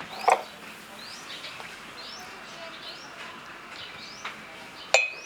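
Small birds chirping in the background, repeated short rising chirps, with a short knock just after the start and a sharp click near the end.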